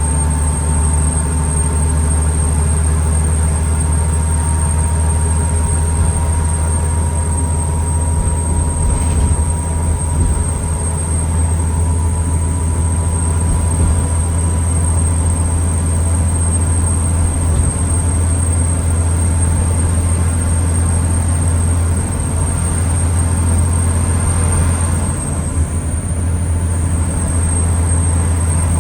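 Cabin noise inside a New Flyer D40LFR diesel transit bus: a steady, loud low engine drone with a thin, steady whine held above it, and no revving.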